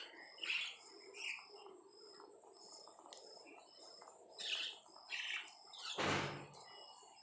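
Pet lovebirds chirping: a steady run of short, high peeps about twice a second under scattered louder chirps, with one loud, rough call or bump about six seconds in.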